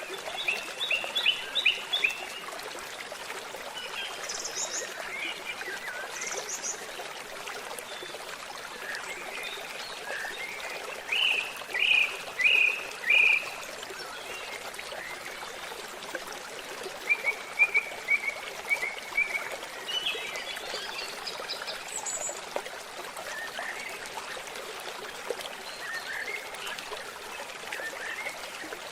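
Babbling stream with songbirds singing over it: a quick run of notes near the start, four loud clear notes a little before the middle, and a rapid series of chirps a little after.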